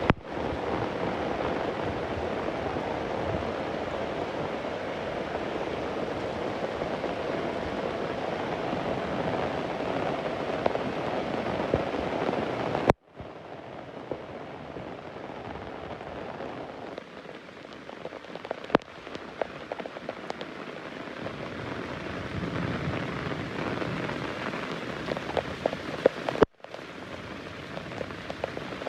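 Rain falling, heavy and steady at first; about halfway through it cuts abruptly to lighter rain with distinct individual drops pattering, with another abrupt break near the end.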